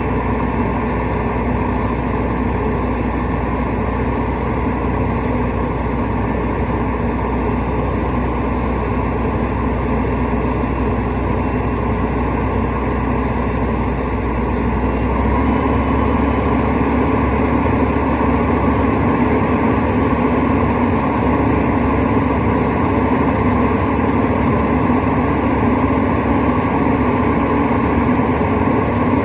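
Rooftop HVAC unit running with a steady mechanical drone. A little over halfway through, the low hum changes and the sound gets slightly louder.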